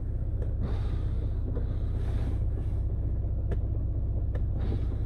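Skoda Octavia 1.6 TDI four-cylinder diesel idling steadily with an even, fast-pulsing rumble shortly after a cold start in frost. A few faint short clicks are heard over it.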